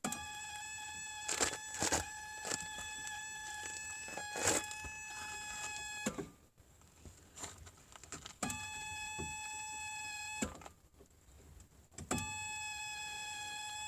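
1985 Toyota MR2's dash warning buzzer sounding a steady electronic tone, on for about six seconds, off, on again briefly, off, then on again near the end, with a few knocks in the first stretch. No fuel pump hum is heard under the car with the ignition on, a sign the pump is not running.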